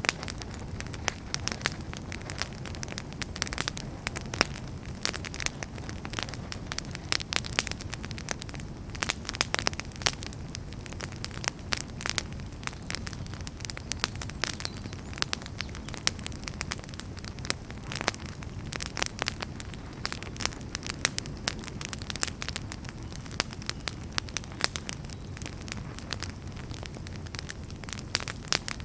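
Wood fire crackling: frequent irregular sharp pops and snaps from burning firewood over a steady low rumble of flames.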